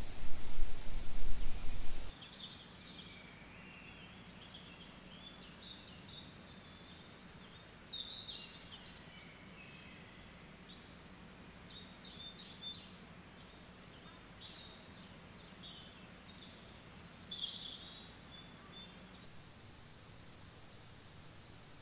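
Songbirds chirping and trilling, with the loudest burst of rapid trills from about seven to eleven seconds in. Before them comes about two seconds of loud low rumbling noise under a steady high whine, which cuts off abruptly.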